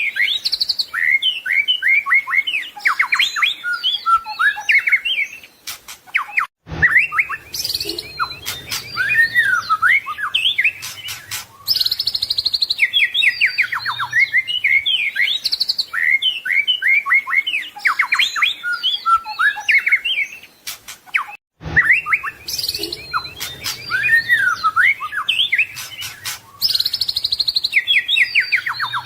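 White-rumped shama singing a long, rapid run of varied whistled phrases and chattering notes, full of mimicked song. It breaks off briefly twice, then goes on.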